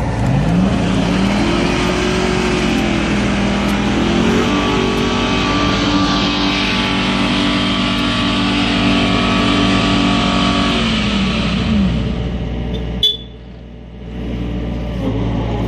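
4x4 vehicle's engine revved hard in mud: the revs climb quickly, are held high for several seconds, then drop back. Near the end the sound breaks off abruptly for about a second before a steadier engine note returns.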